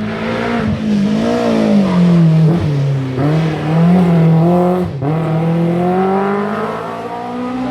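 Rally car engine revving hard. Its pitch rises and falls, with quick lifts or gear changes about two and a half, three, and five seconds in.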